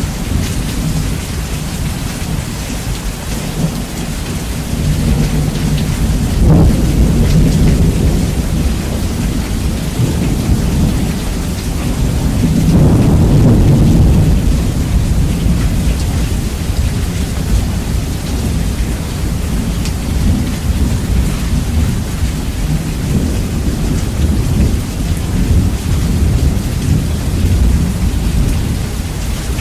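Steady heavy rain with thunder, bass-boosted so that the low end dominates. Thunder swells into a rumble about a quarter of the way in and again, louder, near the middle.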